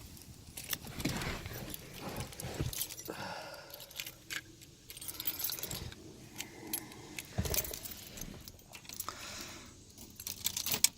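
Car keys jangling and clinking as they are handled, with scattered knocks and rustling.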